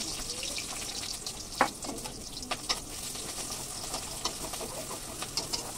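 Chopped onion, chilli and garlic sizzling in hot oil in a wok, stirred with a metal spatula that clinks and scrapes against the pan a few times, most sharply about a second and a half in.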